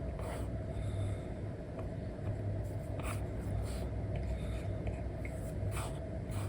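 Apple Pencil strokes and taps on an iPad screen covered with paper-like film: short scratchy strokes at irregular intervals, over a steady low rumble.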